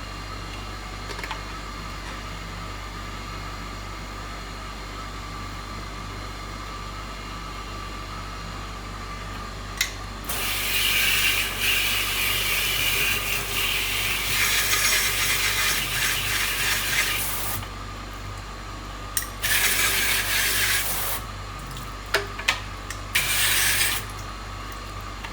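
Water sprayer at a sink hissing in three bursts, the first about seven seconds long, rinsing soapy detergent out of a coffee grinder's bean hopper, over a steady low hum.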